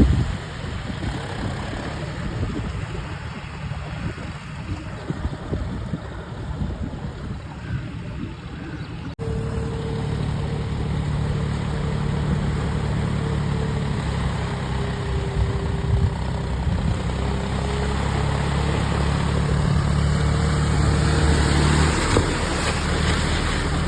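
Heavy machine's diesel engine running, rough and noisy at first; after a cut about nine seconds in it runs with a steadier, clearer hum that shifts slightly in pitch and grows a little louder near the end.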